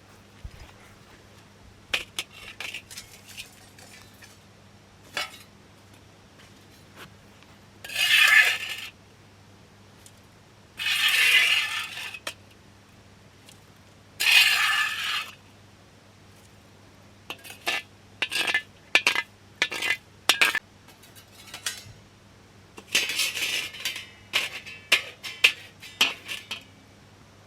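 Cookware and metal utensils clinking and scraping during camp cooking. There are three longer scrapes of about a second each near the middle, then quick runs of light clinks toward the end.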